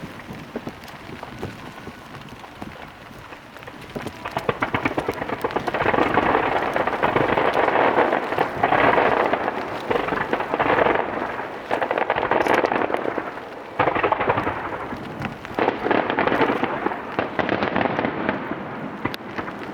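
Starmine fireworks display: from about four seconds in, dense crackling from many small bursting stars comes in several loud swelling waves.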